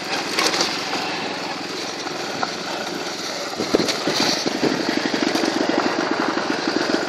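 Motorcycle engine running while riding, over a steady rushing noise. The engine's fast pulsing note grows louder about three and a half seconds in.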